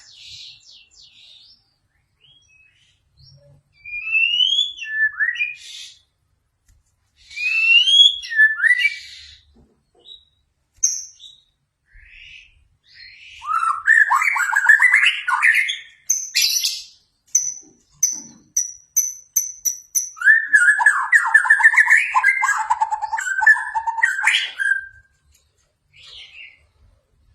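A songbird singing in separate bursts with pauses between: short rising whistled phrases, then longer rapid chattering warbles, including a run of about seven repeated high notes and a long fast warbling phrase near the end.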